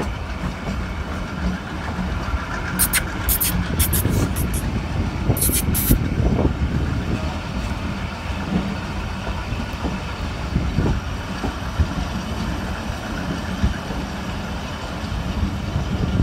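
Passenger train running along the track, heard from an open coach door: a steady rumble of wheels on rail. A few short high-pitched squeaks come about three seconds in and again just after five seconds.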